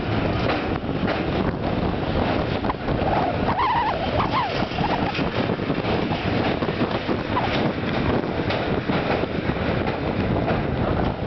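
Passenger train crossing a steel truss railway bridge, heard from the carriage window: steady rumble with dense, irregular clatter from the wheels on the bridge, and wind buffeting the microphone.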